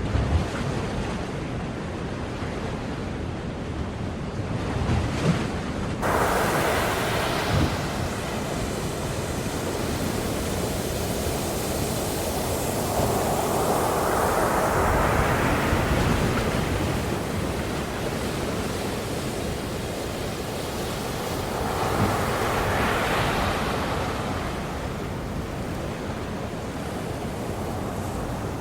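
Ocean surf: waves breaking and washing in a continuous rush. One wave comes in suddenly about six seconds in, a longer swell builds and fades through the middle, and another breaks near the end.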